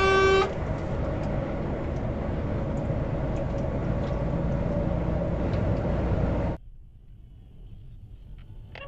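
A car horn held down stops about half a second in, leaving steady vehicle and road noise that cuts off abruptly near the end of the clip to a faint hum, with a single click at the very end.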